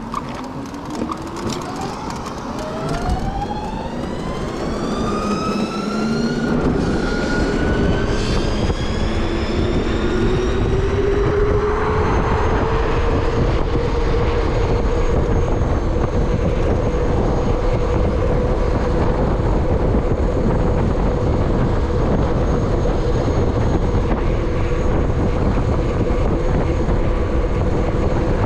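Electric motorbike's motor whining, rising in pitch as it speeds up over about ten seconds and then holding a steady pitch at cruising speed, with rushing wind noise building up underneath.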